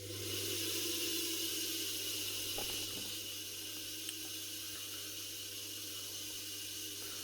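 Washing-machine universal electric motor running on a speed controller: it comes up to speed in the first second, then runs steadily with a hiss and a low hum.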